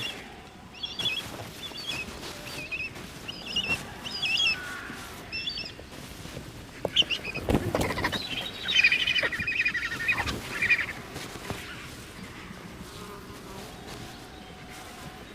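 Vultures squabbling on the ground: short bursts of shrill, chattering squeals, with a loud flurry of flapping wings and scuffling about halfway through, followed by a busier run of squeals.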